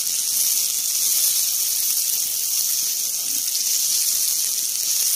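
Chopped onions and green chillies sizzling in hot oil in a stainless steel frying pan: a steady frying hiss.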